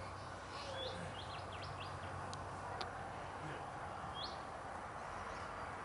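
Small birds chirping: short rising chirps about a second in, a quick run of them just after, and another a little past four seconds, over a steady background hiss. Two faint ticks near the middle.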